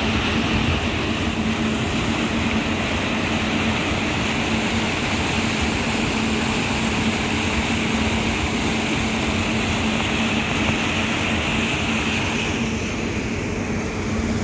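A passenger ship's engine runs steadily underway with a constant low hum, under an even rushing noise.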